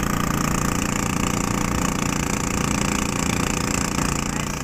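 A small fishing boat's engine running steadily at a constant speed.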